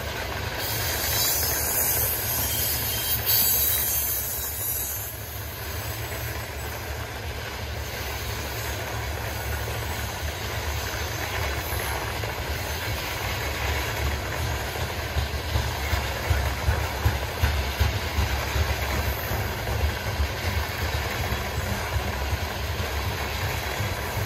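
Freight train rolling past: a steady low rumble of steel wheels on rail, with a high hiss in the first few seconds and a run of sharp clacks in the second half.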